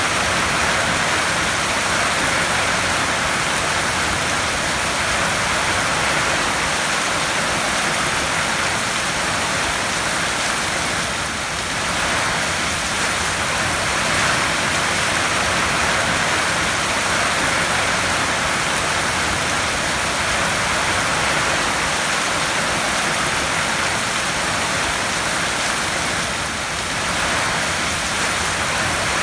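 Heavy rain drumming steadily on a tin roof, a dense even hiss that eases slightly twice for a moment.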